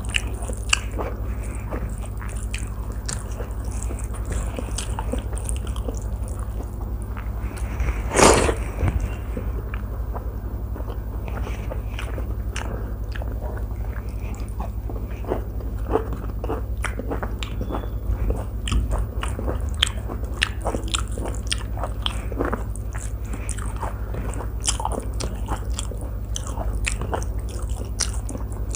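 Close-miked eating by hand: chewing and biting mouthfuls of rice, with many small wet clicks and lip smacks and fingers mixing food on a steel plate. One louder knock comes about eight seconds in, over a steady low hum.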